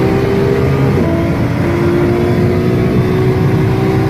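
Car engine pulling hard under full throttle, its note rising slowly and dipping briefly about a second in, over a heavy rumble.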